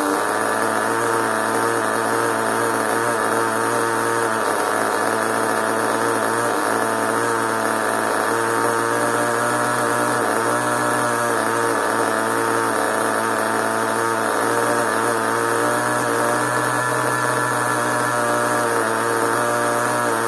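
Small nitro engine of an RC monster truck running steadily at a constant speed, with no revving.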